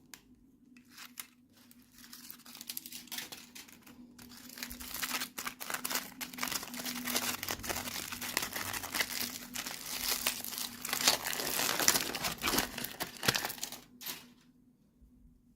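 Toy packaging being crinkled and torn open by hand. The crackling is sparse at first, grows dense and continuous from about four seconds in, and stops near the end.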